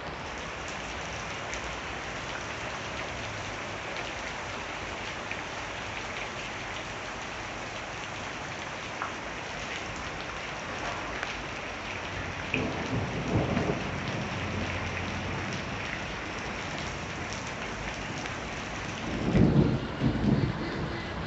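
Heavy rain falling steadily, with two louder low rumbles of thunder, one about twelve seconds in and one near the end.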